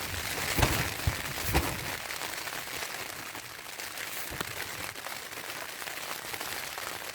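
Steady rain falling on a tarp shelter overhead, an even hiss with a few soft knocks in the first couple of seconds.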